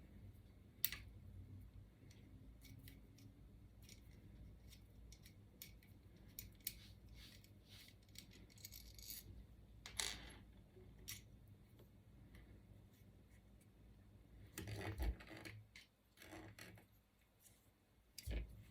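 Scattered light clicks and taps of small metal parts and a hand tool being handled while a 3D printer extruder is disassembled, with a sharper click about a second in and a short cluster of clicks near the end.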